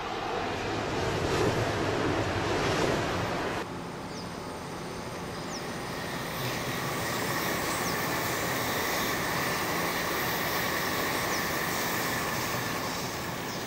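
N700 series 7000 subseries Shinkansen train passing at speed, a loud steady rush of air and wheel noise. About three and a half seconds in the sound cuts abruptly to a second, steadier rush with a faint high whine.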